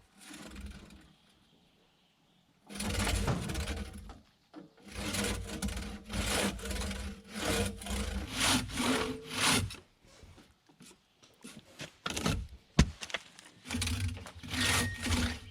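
A hand tool cutting into a wooden log in repeated rasping strokes, about one or two a second, with a pause of a second or two in the middle before the strokes resume.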